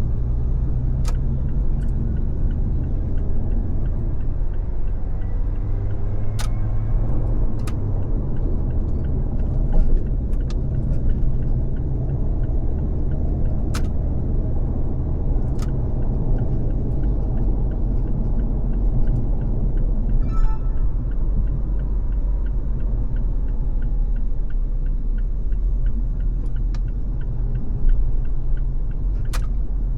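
Car driving on a freeway: steady low road and engine rumble, with a few sharp ticks scattered through it.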